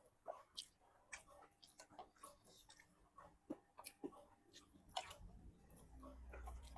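Faint, irregular small clicks and taps, with a low hum coming in about five seconds in.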